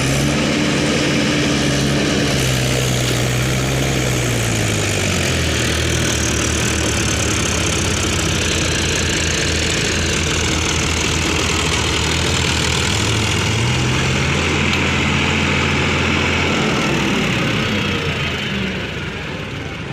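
Tractor engine running hard, its pitch rising as it revs up, falling back about four seconds in, rising again near the two-thirds mark and then settling, with the sound easing off near the end.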